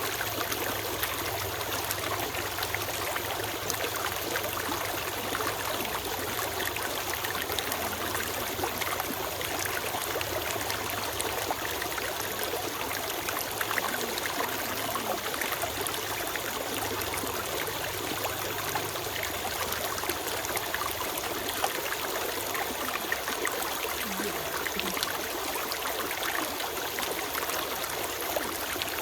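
A small forest stream flowing steadily over stones, a constant trickling babble of water with no break or change.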